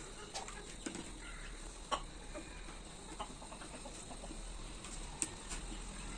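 A few light clicks and taps of plastic parts being handled and pushed together, with chickens clucking faintly in the background.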